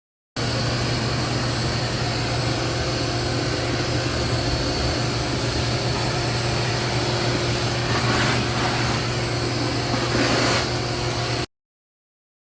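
A motor-driven machine running steadily, a constant hum under a loud hiss of rushing air, with two brief swells in the hiss near the end; it cuts in and out suddenly.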